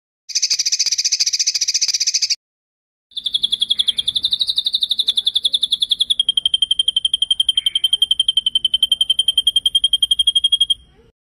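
Songbird giving two rapid, high trills: a short burst of about two seconds, then after a brief pause a long trill of about eight seconds that drops slightly in pitch about three seconds in and then holds steady.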